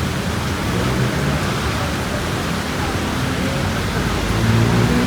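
Steady heavy rain with wind, under the low hum of a vehicle engine that grows louder near the end.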